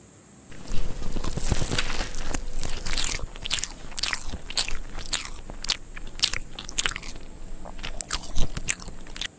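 Close-miked eating sounds: bites and chewing with many irregular sharp, crackly clicks. They start suddenly about half a second in and cut off just before the end.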